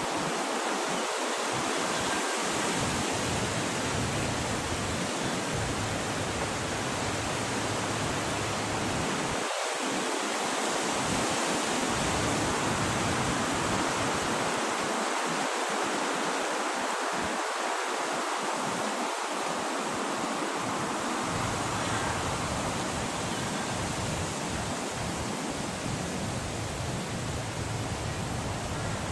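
Steady wind noise, an even, unbroken hiss that holds at the same level throughout.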